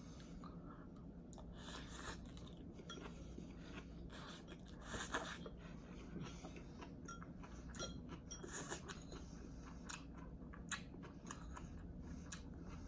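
A person chewing and slurping rice noodles close to the microphone: wet mouth clicks and smacks at irregular intervals, with a few louder bites about two, five and eight seconds in.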